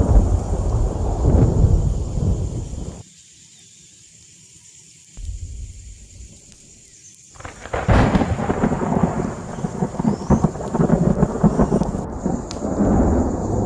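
Thunder rumbling over steady rain. The rumble cuts off abruptly about three seconds in, leaving a quieter stretch for about four seconds, then a fresh loud peal of thunder rolls in about eight seconds in and keeps rumbling.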